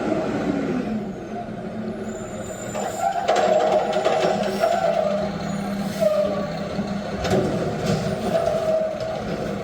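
Front-loader garbage truck running, with several short air hisses from its brakes.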